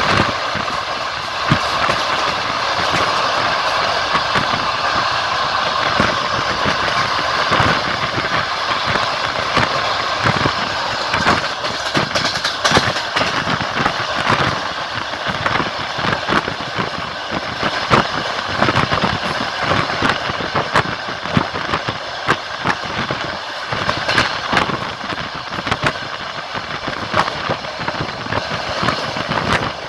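Passenger train running along the line: steady rumble and rattle of the carriage, with the wheels clacking irregularly over rail joints.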